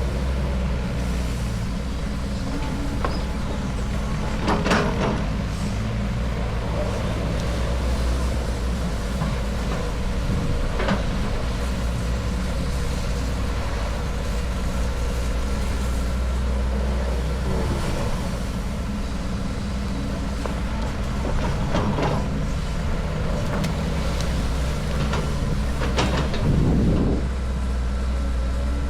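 Heavy vehicle engine running steadily with a low drone, with a few short sharp sounds on top of it.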